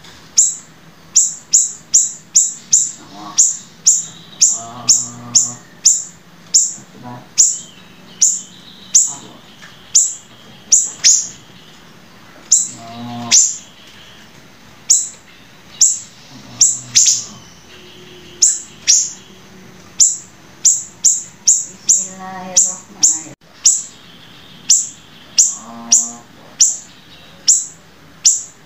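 Songbird song of the kind used as training material for contest birds: a rapid series of sharp, high, downslurred chips, about one and a half a second. A few softer, lower warbled phrases and a faint thin trill come in between.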